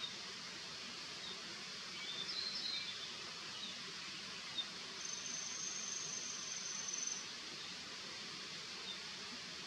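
Steady outdoor hiss with faint high calls: a short twittering phrase about two seconds in, then a thin, even high note held for about two seconds around the middle.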